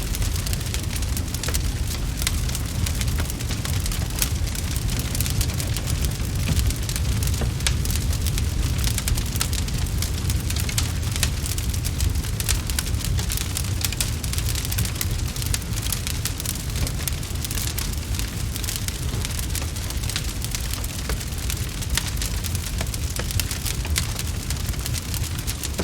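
Wood fire crackling: dense, irregular snaps and pops over a steady low rumble.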